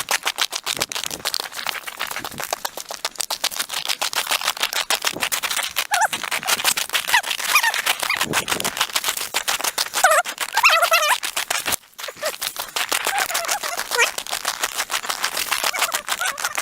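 Footsteps crunching through snow while walking, a rapid, dense crunching, with a few short high squeaks scattered through it.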